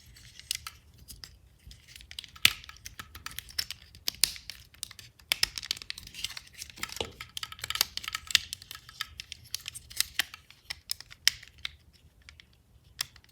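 Plastic toy parts being handled, with dense irregular clicks and snaps and some crinkling, as toy robots are twisted and folded between forms.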